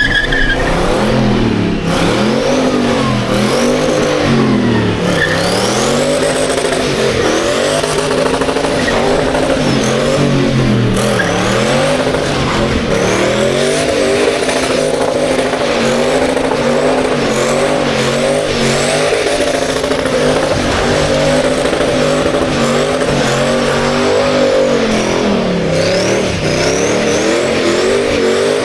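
Car engine revving hard during a burnout, its revs rising and falling over and over, with tyre noise hissing underneath.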